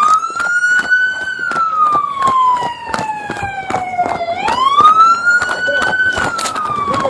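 Police-style emergency vehicle siren in a wail pattern: each cycle rises quickly, then falls slowly over about three seconds, twice in all. Many sharp clicks or knocks run through it.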